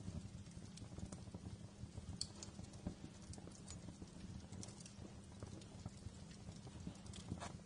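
Wood fire crackling: a steady low rumble of flames under frequent small, irregular pops, with one sharper pop near the end.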